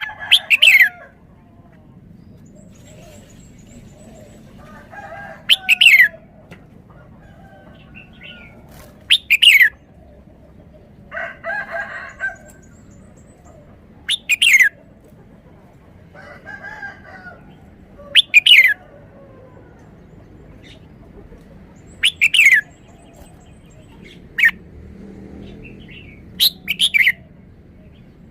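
Red-whiskered bulbul singing loud, short, sweet phrases of its three-syllable song, repeated about every four seconds. Quieter chattering calls come between the phrases.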